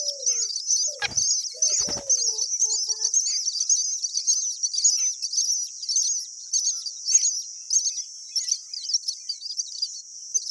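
Myna birds chirping high and rapidly without a break. Low cooing notes sound in the first couple of seconds, and there are two knocks about one and two seconds in.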